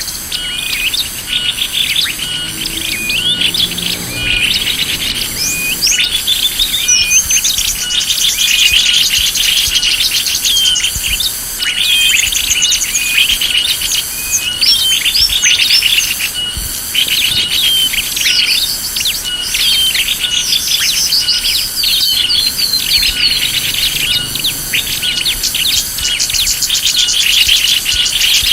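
Bird-lure (pikat) recording of many small birds chirping and calling at once, a dense chatter of short notes and whistles, with an evenly repeating high-pitched pulse running under it.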